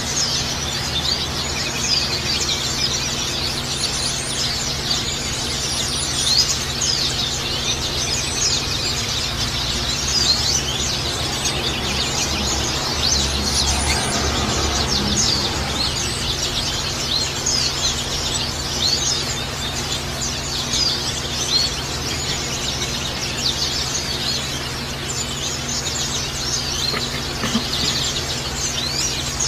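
Pleci (white-eye) birds chirping continuously in rapid, high-pitched twittering over a steady background of trickling water, a recording used to calm pleci birds and provoke them to sing.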